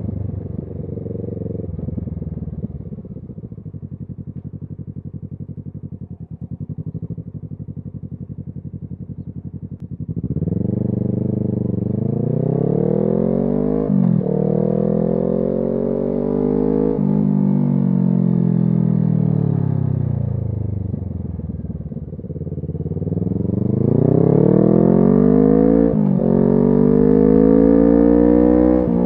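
Kawasaki Z650's 649 cc parallel-twin engine through an SC Project exhaust. It runs low and even for about ten seconds, then pulls hard with the pitch climbing and dropping at two quick upshifts. It eases off and falls, then pulls up again through another shift near the end.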